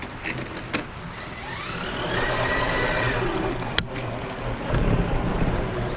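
RC crawler's electric motor whining under throttle, rising in pitch, holding, then falling, while the drivetrain won't turn: it is locked up with something broken. A sharp click comes just before four seconds in.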